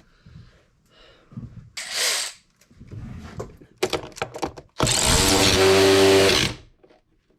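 Cordless power drill/driver tightening fasteners during reassembly: a short burst about two seconds in, a few sharp clicks, then a steady run of nearly two seconds that stops suddenly.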